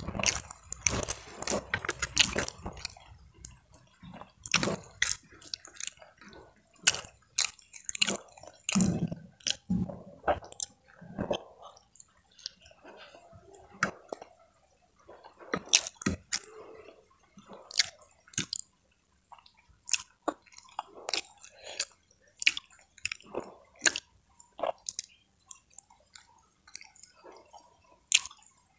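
Close-up chewing of food eaten by hand, fried tempeh and water spinach with sambal, with many sharp, wet mouth clicks at irregular intervals.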